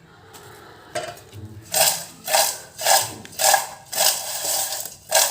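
Kitchenware clattering or scraping in a steady rhythm, about two strokes a second for several seconds.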